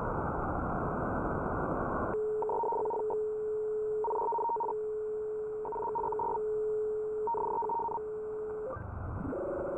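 Shortwave radio receiver audio: a band of static hiss that cuts off about two seconds in. A steady mid-pitched tone follows, with a higher beeping burst about every second and a half, four times. Near the end a different steady buzzing tone comes in.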